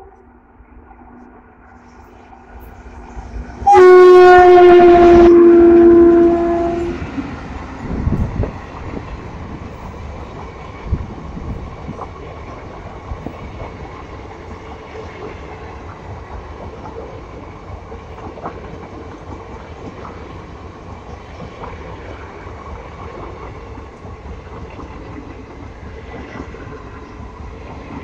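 An express train's locomotive horn sounds one long, loud blast about four seconds in. The train then passes at speed close by, its coaches making a steady rumble and clatter of wheels on the rails, with occasional knocks.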